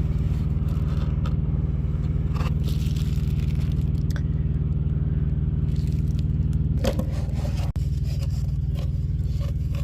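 A utensil scraping and clicking in a food container, over the steady low hum of an idling engine.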